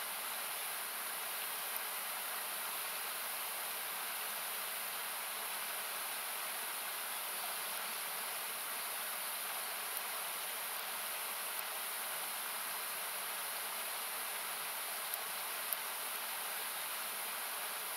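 Steady rushing of a river, thinned by equalizer cuts into an even hiss, with a few sharp pops of a wood campfire crackling, the loudest about three-quarters of the way through.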